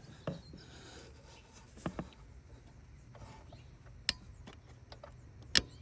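A few scattered sharp metallic clicks and taps as a 3/8-inch drive torque wrench and deep socket are fitted onto a water pump bolt and worked, with the sharpest click near the end.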